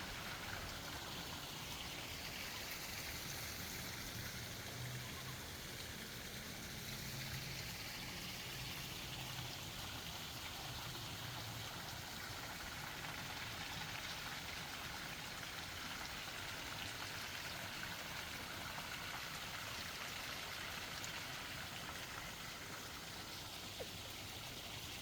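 Small forest stream flowing with a steady rush of running water.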